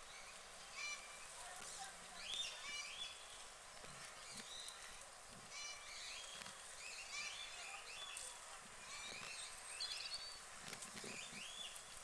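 Birds calling: short, high calls repeated every second or two.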